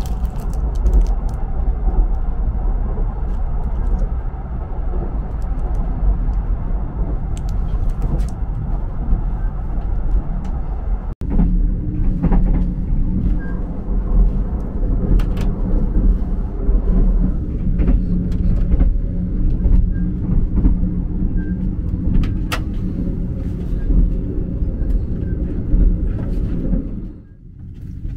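A moving passenger train's steady low running rumble heard inside a sleeper cabin, with scattered faint clicks. It breaks off for an instant about eleven seconds in and drops away shortly before the end.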